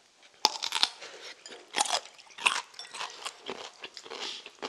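A bite into a whole chonggak kimchi radish gives a sharp crunch about half a second in. Repeated crunches of chewing the firm radish follow.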